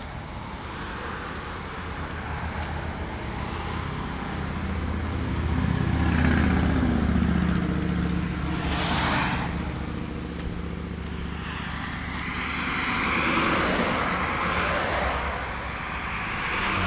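1948 Plymouth Special Deluxe's flathead straight-six engine running, its pitch rising for a couple of seconds about six seconds in, with a short rush of hiss about nine seconds in.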